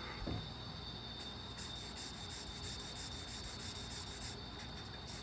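Marker strokes scratching and rubbing across paper, coming in repeated soft patches, with a faint steady high whine under them.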